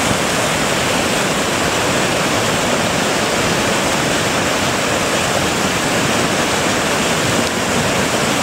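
Rain-triggered lahar flood, a fast mudflow of water, sand and large boulders, rushing down a river channel with a loud, steady roar like a jet engine.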